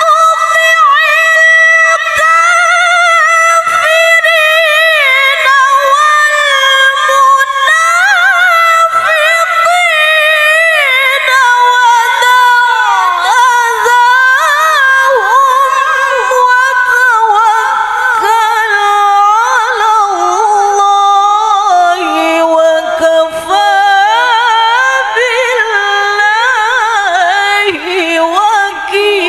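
A woman reciting the Quran in melodic tilawah style, drawing out a long ornamented phrase with rapid turns of pitch. Her voice starts high and steps gradually lower through the phrase.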